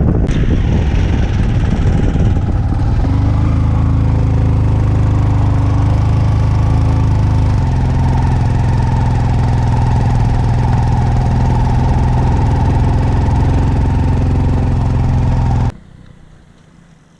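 A motor vehicle engine running at steady speed under load, with wind noise on the microphone, its pitch stepping slightly a couple of times. It cuts off suddenly near the end, leaving a much quieter background.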